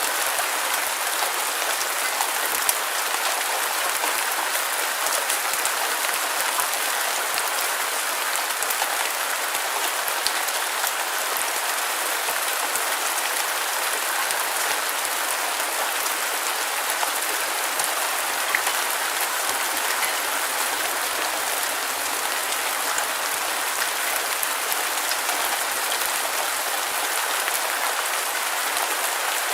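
Steady rain falling on a surface, an even hiss with fine scattered drop ticks and almost no low rumble.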